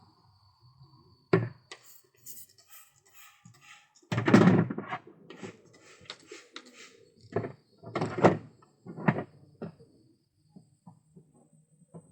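Pigeons moving about in a loft: scattered thuds and fluttering bursts, the loudest a little over four seconds in and several more near the end.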